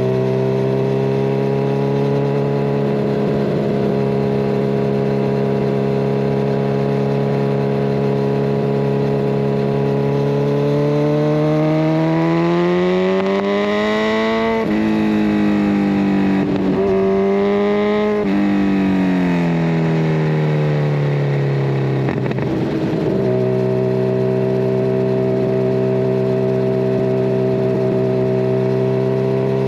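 Kawasaki Ninja 1000SX inline-four engine through a Scorpion Red Power exhaust with the catalytic converter removed, heard on the move. It cruises steadily, then revs climb about a third of the way in and drop sharply at each of a few quick upshifts. The revs then fall away as it slows and settle back to a steady cruise near the end.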